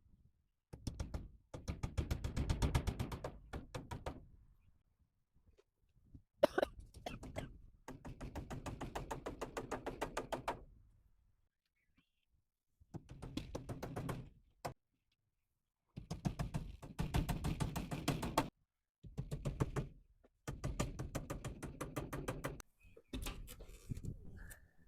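A power driver hammering in rapid bursts, a fast clatter of impacts lasting one to three seconds each, about nine times, as screws are driven to fasten soffit panels.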